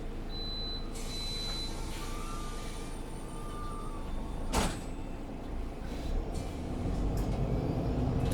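MAN Lion's City 19C EfficientHybrid bus heard from inside the cabin, running steadily with a brief high beep near the start. A short sharp sound comes about four and a half seconds in, then the engine sound grows louder toward the end.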